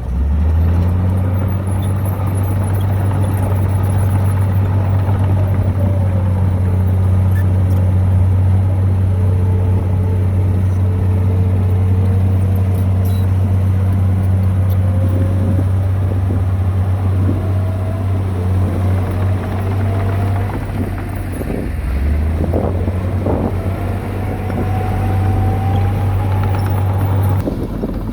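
Heavy diesel earthmoving machine running steadily under load. A fainter whine above it slowly falls and then rises in pitch, with a few short knocks in the second half.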